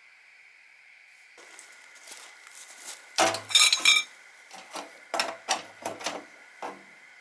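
Metal cookware and utensils clinking and clattering as they are handled, a loud cluster of ringing clanks about three seconds in, then several lighter knocks.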